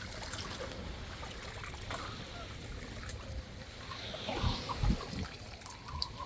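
Seaside outdoor ambience: a steady wash of wind and surf, with faint snatches of voices and a few low thuds of wind on the microphone about two-thirds of the way through.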